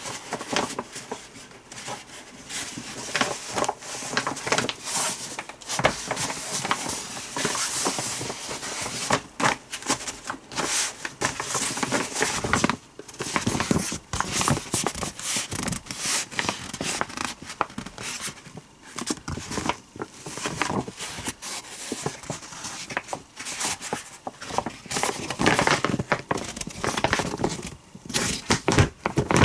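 Irregular rustling, crinkling and clicking handling noises, dense and continuous, with no steady tone.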